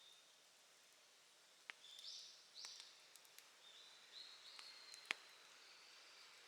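Open wood fire crackling faintly, with a few sharp pops; the loudest comes about five seconds in. Thin high whistling tones come and go over it.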